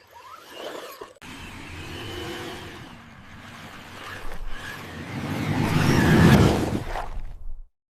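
A vehicle running, swelling gradually to its loudest about six seconds in, then fading and cutting off suddenly near the end.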